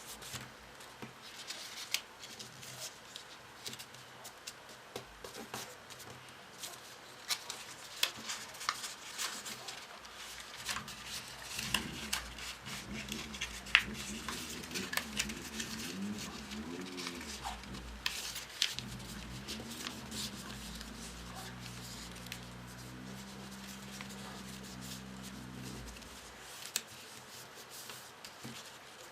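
Paper being handled and folded: rustling with many short crisp clicks and ticks as folded paper modules are worked. Through the middle a faint low hum, wavering in pitch and then steady, sits underneath.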